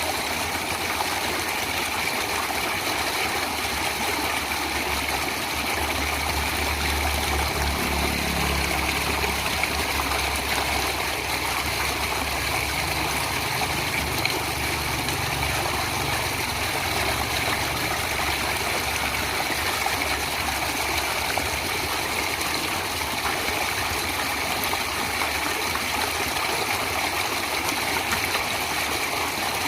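Stream water flowing steadily. A low engine rumble rises under it about six seconds in and fades out a little over halfway through.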